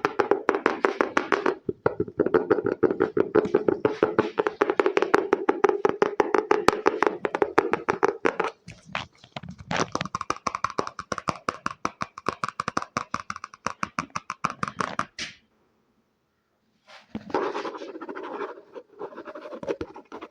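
Rapid ASMR tapping with the fingers on objects. For the first eight seconds or so it is a fuller, lower tapping, then a brighter, crisper tapping. After a short pause near the end come scratchier strokes.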